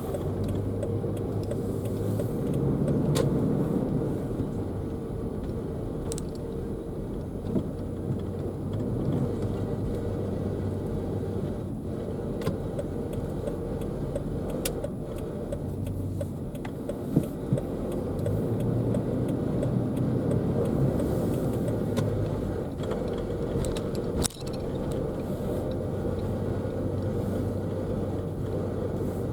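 Car driving, with a steady road and engine rumble and an irregular rattling, clicking noise from the passenger side, like ice cubes in a blender. Its cause is unknown: nothing was found caught on a tire or under the car.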